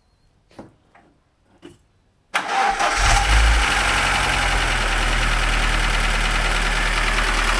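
Lada Niva four-cylinder petrol engine, freshly rebuilt, cranking and catching about two seconds in, briefly surging, then idling steadily. A few faint clicks come before the start.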